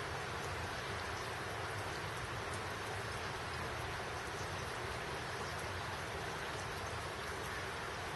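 Steady rain falling: a continuous even hiss with many small drop ticks, unchanging throughout.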